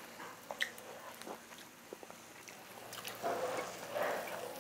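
Close-miked chewing of grilled marinated beef short ribs, with scattered light clicks of metal chopsticks; the chewing gets louder about three seconds in.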